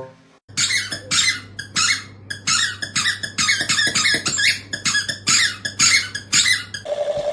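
Rapid, repeated squeaking, about three squeaks a second, over a steady low hum; the squeaking stops abruptly near the end.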